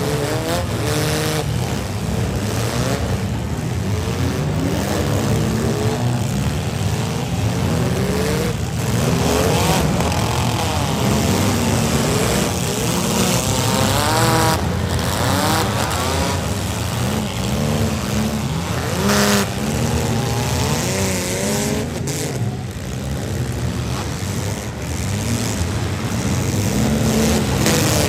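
Several demolition-derby cars' engines revving hard at once, pitches rising and falling as the drivers push and ram, with a few sharp bangs of cars colliding.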